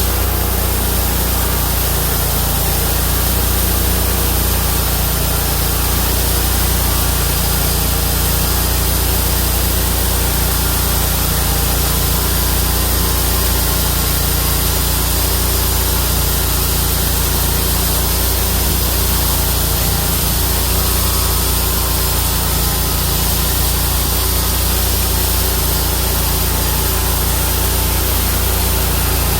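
Homemade bandsaw sawmill with a 31 hp engine running steadily, its carbide-tipped band blade sawing through a Chinese toon (Cedrela sinensis) log.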